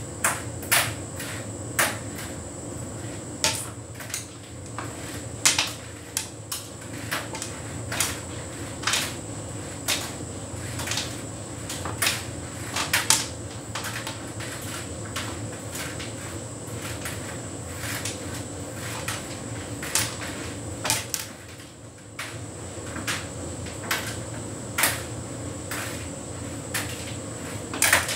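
Hotpoint heat pump tumble dryer running: a steady low hum with a faint high whine, and irregular clicks and knocks about once a second as the load tumbles in the drum.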